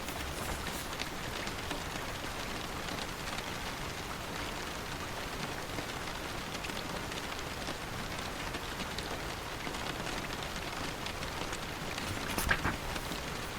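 Steady rain falling, an even hiss with scattered drop ticks. A single paper page turning gives a brief, louder rustle near the end.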